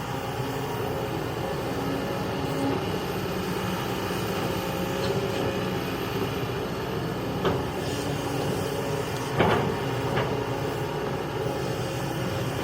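Kobelco excavator's diesel engine running steadily under work, with a few sharp metallic knocks in the second half, the loudest about three seconds before the end.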